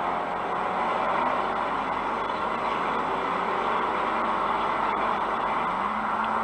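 Steady road and engine noise of a moving vehicle, with no crash or impact.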